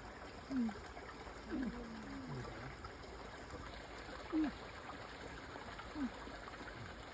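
Water trickling and running steadily, with a few short low sounds that fall in pitch.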